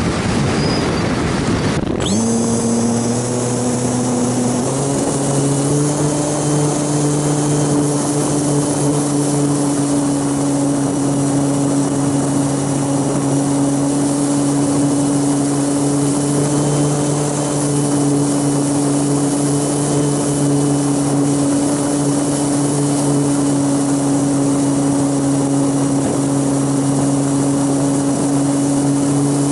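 Radio-controlled model aircraft's motor and propellers running at a steady pitch with a faint high whine, heard from a camera mounted on the aircraft. Wind rumble comes first; the motor sound starts abruptly about two seconds in, steps up in pitch over the next few seconds, then holds steady.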